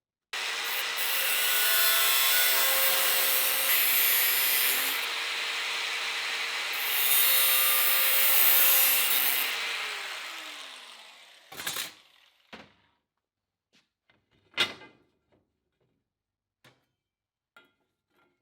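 Angle grinder working on sheet steel in two rough passes over about nine seconds, then switched off, its whine falling as the disc spins down. A few sharp knocks follow, the loudest about fourteen seconds in.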